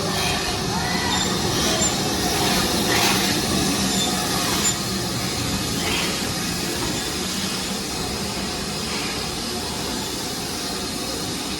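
A railway train running, a steady rolling rumble with a few brief high-pitched squeals from the wheels in the first half.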